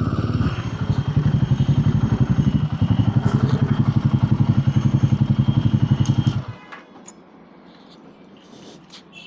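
Royal Enfield Himalayan 450's single-cylinder engine idling with a rapid, even pulse, then cutting off suddenly about six and a half seconds in as it is switched off. A few faint clicks follow.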